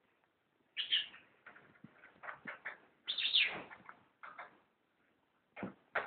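Pet cockatiel vocalizing: a string of short chirps and whistled notes with brief pauses between them, and one longer call about three seconds in that falls in pitch.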